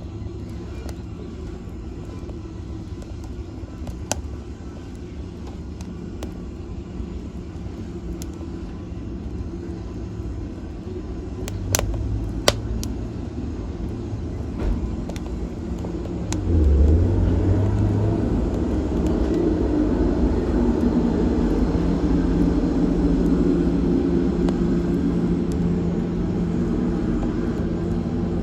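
Wood fire burning with a steady low rumble and a few sharp crackling pops, growing louder about sixteen seconds in.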